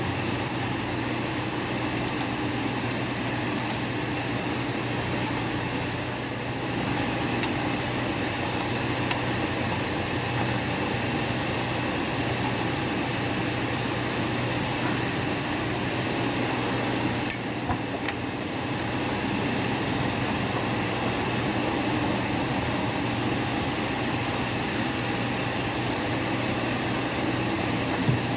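Steady mechanical hum with a constant low drone and an even hiss, with a few faint light ticks in the first several seconds.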